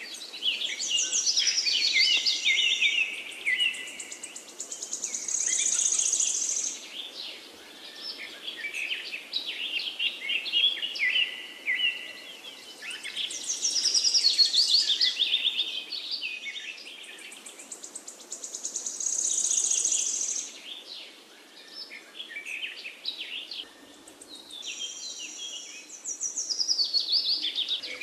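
Several forest birds singing and chirping in dense, overlapping trills over a faint background hiss, the stretch of song coming round again about every thirteen seconds.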